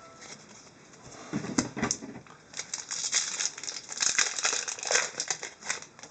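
Foil wrapper of an Upper Deck hockey card pack crinkling and rustling as it is handled and opened. The rustling starts about a second in, comes in irregular bursts with a few dull knocks early on, and grows denser through the rest.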